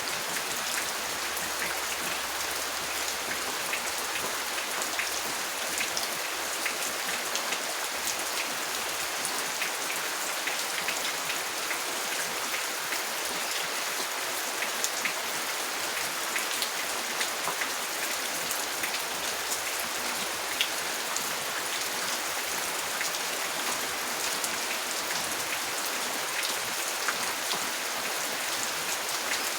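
Steady rain, an even hiss peppered with many individual drops ticking on a hard surface close by.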